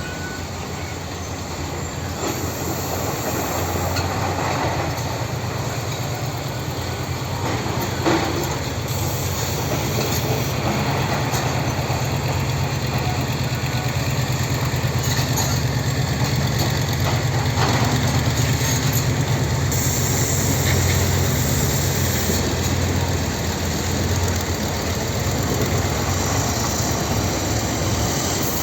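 Tractor engine running steadily at work, a low hum that grows a little louder over the first few seconds, with a sharp knock about eight seconds in and a fainter one later.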